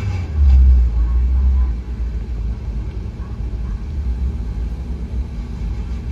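Low rumble of a vehicle on the move, as picked up by a dashcam. It swells louder for about a second shortly after the start, then settles to a steady rumble.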